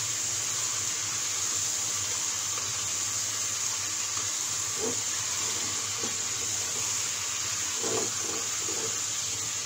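Chicken, potato and papaya pieces sizzling in hot oil and spice paste as they are stirred in the pot: a steady frying hiss.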